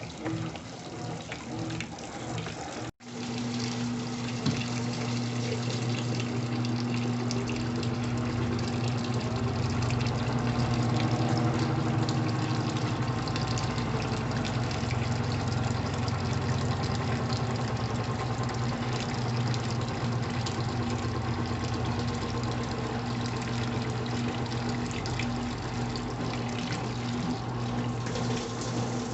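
Brastemp Intelligent 7 kg washing machine mid-cycle: water moving through the machine with a steady low electric hum. The sound breaks off sharply for an instant about three seconds in.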